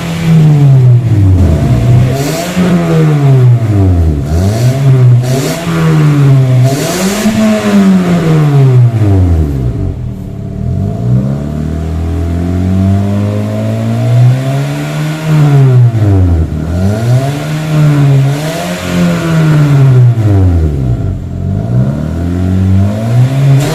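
Toyota Yaris engine revved repeatedly through an aftermarket NDK muffler on the stock header and resonator: the exhaust note climbs and drops in a string of rev blips. It holds a lower, steadier note for a few seconds around the middle.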